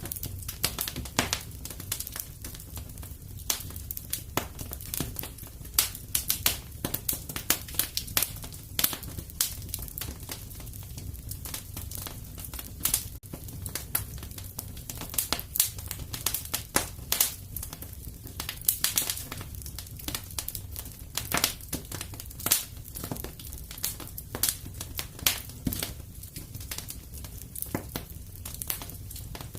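Wood fire crackling steadily: irregular sharp pops and snaps over a low rumble of the burning fire.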